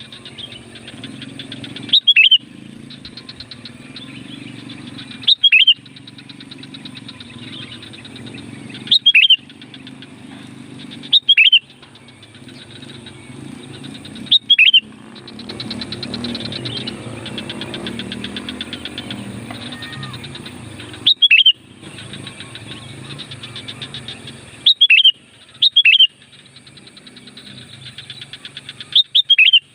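Sooty-headed bulbul (kutilang) calling: a short, loud, falling whistled note, repeated nine times a few seconds apart over a steady low rumble. It is the bulbul's call, used to lure wild bulbuls.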